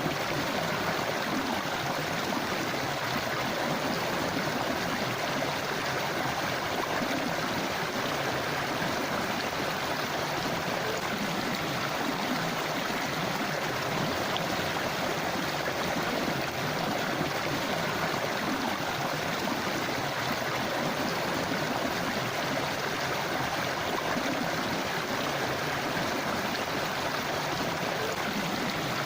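A river running: steady rushing water.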